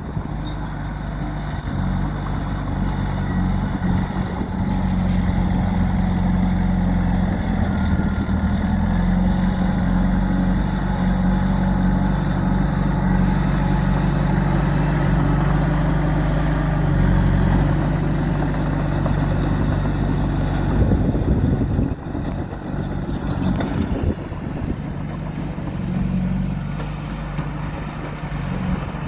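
Diesel engine of heavy earthmoving machinery running steadily at work. The engine note changes and drops in level about two-thirds of the way through, with a few knocks around it.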